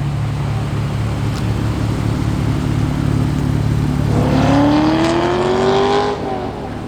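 V6 Dodge Challenger engine running at a steady low idle, then revving up about four seconds in, its pitch climbing for about two seconds before dropping back off.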